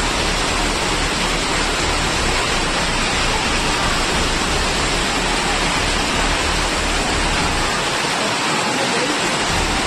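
Steady rushing of water, an even unbroken noise that stays level throughout.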